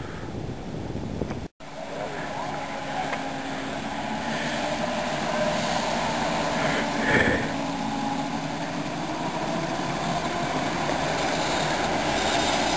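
A motor running steadily, slowly growing louder, after a sudden break in the sound about a second and a half in.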